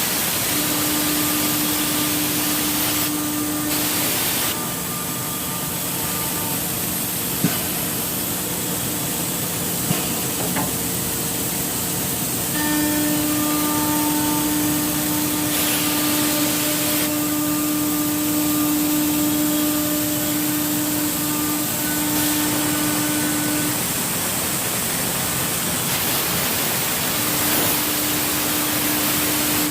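CNC router cutting wood: a steady hiss with a spindle whine that drops out and returns several times, and two sharp clicks around the middle.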